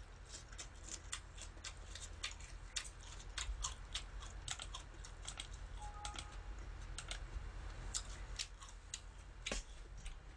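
Chewing a mouthful of spinach salad: a faint, irregular string of small mouth clicks and smacks over a steady low hum.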